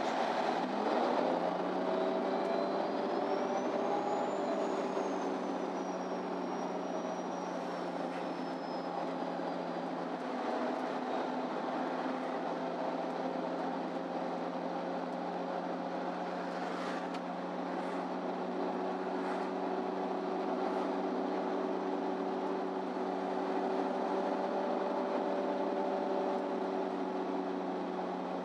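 MAN Lion's City Ü bus heard from inside the passenger cabin, its engine and drivetrain picking up in pitch as it speeds up, then running at a steady pitch. A thin high whine rises and falls during the first ten seconds, and a few short clicks come past the middle.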